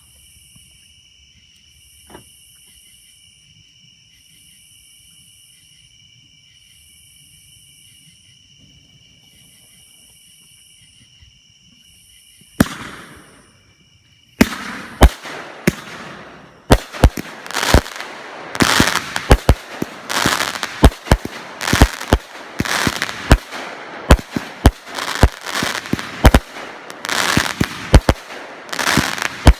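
Two Eureka 500-gram firework cakes firing: after a quiet stretch with steady high-pitched tones and a pulsing chirp, a brief hiss comes about twelve seconds in. From about fourteen seconds in, a rapid run of sharp bangs follows, one or two a second, with crackling between them.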